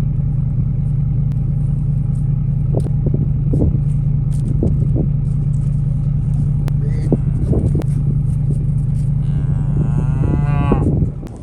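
Cattle mooing over the steady low hum of an idling engine, with a few knocks. Near the end one long, loud moo bends in pitch, and the engine hum stops just after it.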